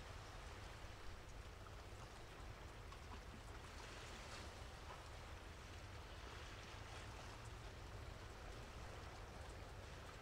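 Faint patter of light rain, with scattered small ticks over a low, steady rumble.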